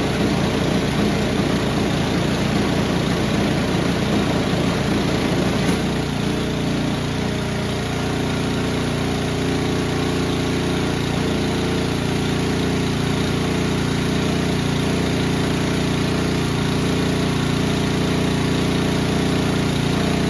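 Powermate 208cc overhead-valve single-cylinder snowblower engine running, uneven at first and settling into a steadier run about six seconds in. The engine is not running as well as it should on its old, uncleaned carburettor.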